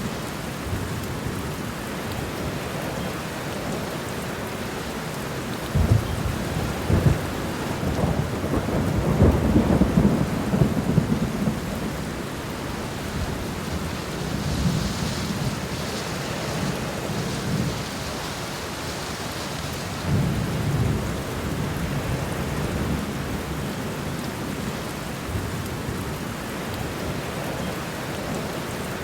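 Steady rain falling, with low rumbles that come in suddenly about six seconds in, swell for several seconds, and return briefly around twenty seconds in.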